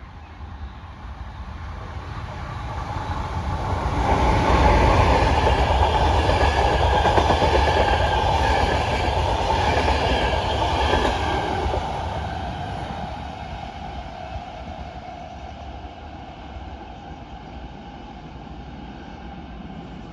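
A train passing by on the rails. It grows louder over the first few seconds, stays loud for about seven seconds, then fades away.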